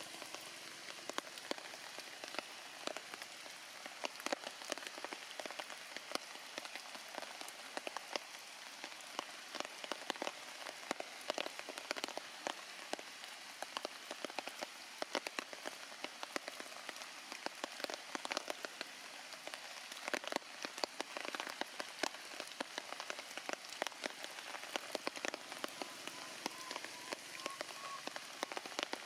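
Heavy rain falling steadily, with many sharp individual drop impacts close by.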